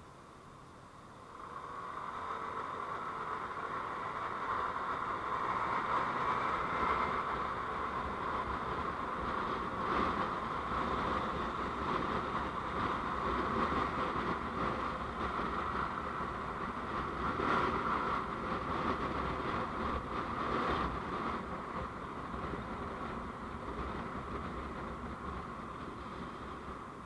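Steady rushing vehicle noise as recorded by a dashcam. It comes up about a second in, with a few faint knocks, and eases off near the end.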